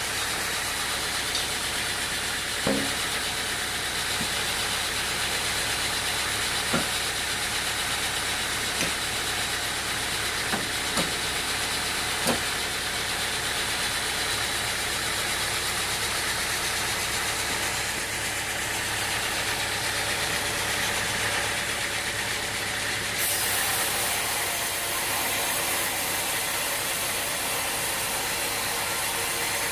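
An engine running steadily, with a few sharp knocks or clunks about 3, 7, 9, 11 and 12 seconds in.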